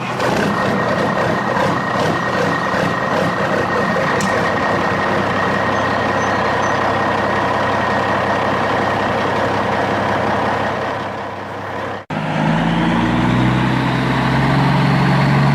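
Steady mechanical vehicle running noise that cuts off suddenly about twelve seconds in, followed by a different steady running sound with pitched tones that step up and down.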